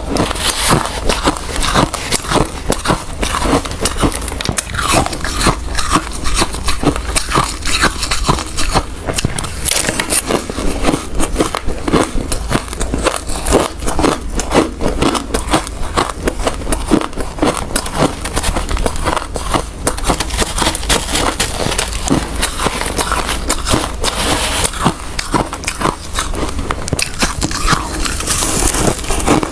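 Ice being bitten and chewed close to the microphone: a continuous run of loud, sharp crunches and cracks with no pauses.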